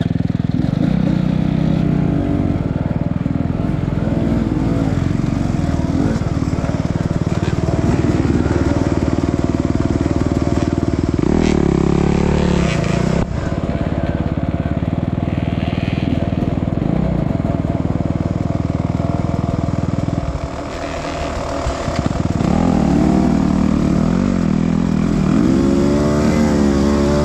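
Dirt bike engine running hard under load, its revs swinging up and down. The pitch climbs sharply twice, about 11 seconds in and again over the last few seconds, and the engine eases off briefly about 20 seconds in.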